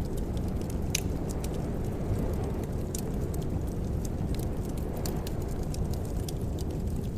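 Wood fire crackling in a fireplace: irregular sharp pops and snaps over a steady low rumble, with one stronger pop about a second in.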